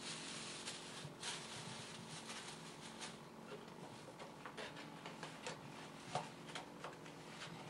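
Paper rustling, most of it in the first three seconds, followed by scattered light handling clicks and ticks, over a faint steady hum.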